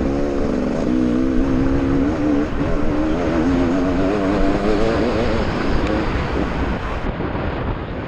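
Enduro dirt bike engine running under the rider, its note rising and falling with the throttle. Near the end the engine note fades into a rougher rumble.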